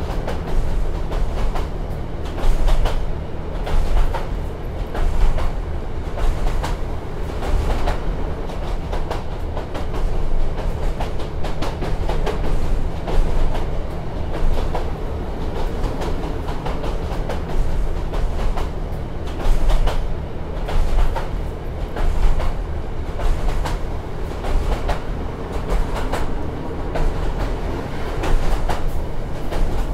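Inside a diesel passenger train running along the line: a steady low rumble of engine and wheels, with repeated clacks and knocks of the wheels over the rail joints and loudness swelling every second or two.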